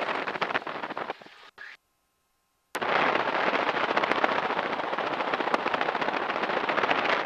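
Radial engine of a T-6 Texan (SNJ-6) running at taxi power, a loud dense crackle of rapid exhaust pops. The sound drops out about a second in and comes back nearly two seconds later.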